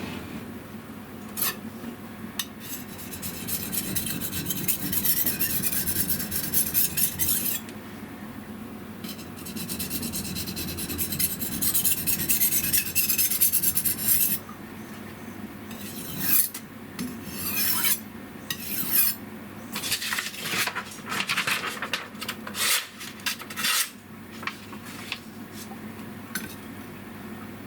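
Kitchen knife scraped back and forth on the side face of a Shapton Kuromaku #1000 medium whetstone. It starts with two long runs of rapid rasping strokes, then slower, separate strokes in the second half.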